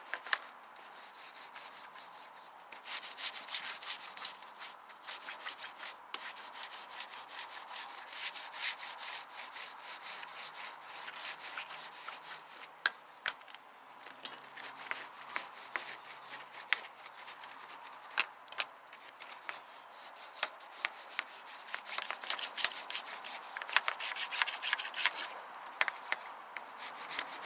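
Scrub brush scrubbing a wet wire grill warming rack in quick back-and-forth strokes, with scattered sharp knocks and a few short pauses, knocking off baked-on debris.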